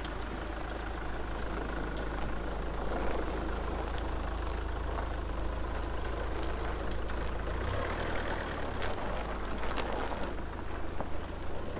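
A vehicle's engine running steadily with a low hum, its pitch shifting briefly about eight seconds in.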